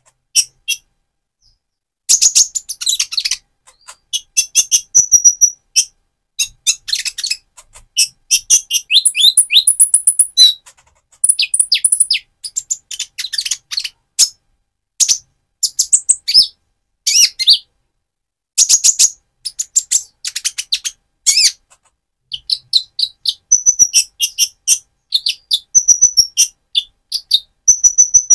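Purple-throated sunbird singing: rapid runs of very high, thin chirps and twitters in bursts of a second or two, separated by short pauses.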